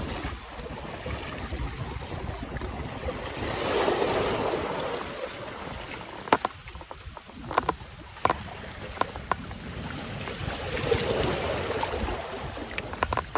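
Surf washing onto a sandy beach, swelling twice, with a low wind rumble. Several sharp clicks come through in the middle and near the end.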